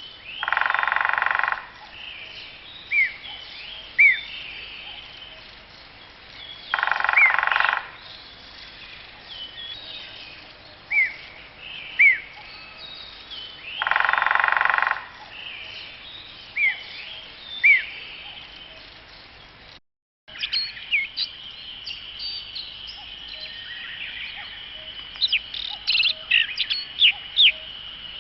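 Wild bird calls. A harsh, buzzy call about a second and a half long comes three times, about seven seconds apart, each followed by two short, sharp, falling notes. After a brief break, a different recording plays with a steady high hum under a quick run of sharp chirps near the end.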